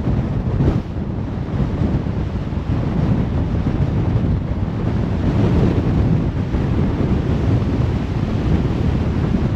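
Steady low road noise of a car cruising on a motorway: tyre rumble and wind. A brief louder rush comes under a second in.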